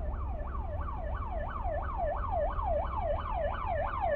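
Emergency vehicle siren in a fast yelp, its pitch jumping up and falling about three times a second, over a steady low rumble.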